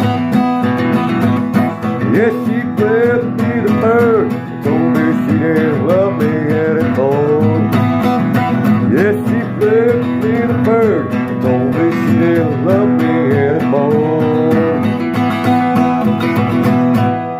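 Instrumental break of a country song: acoustic guitar strummed steadily, with a melody line bending up and down in pitch over it that drops out near the end, leaving the guitar on its own.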